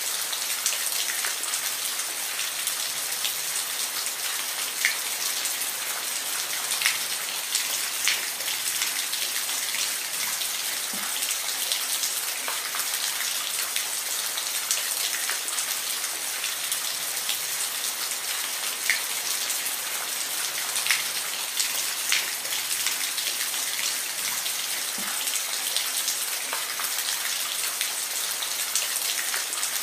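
Steady rain falling, an even hiss with scattered sharper ticks of single drops striking close by.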